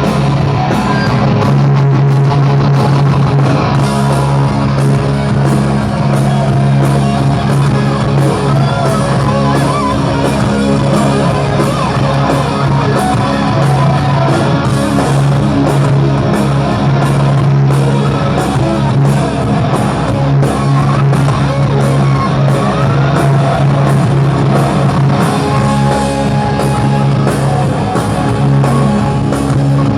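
Live hard rock band playing an instrumental passage with electric guitar, bass and drums keeping a steady beat.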